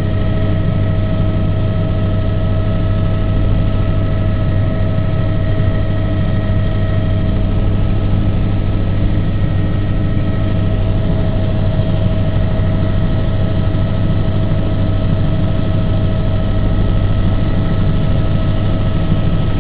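Steady, loud drone of an aircraft in flight, its engine and propeller or rotor running at constant power with a deep hum and a few steady higher tones.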